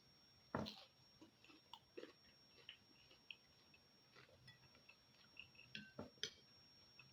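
Close-up eating sounds of a person chewing bakso meatballs and rice: soft mouth clicks and smacks. There is a louder knock about half a second in and another near six seconds.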